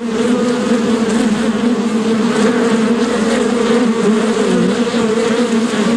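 Bee buzzing in flight: a loud, steady, unbroken hum.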